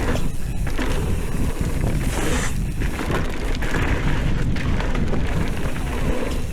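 Wind buffeting the microphone of a camera on a moving mountain bike, a steady low rumble with crackles and rattles from riding over rough ground.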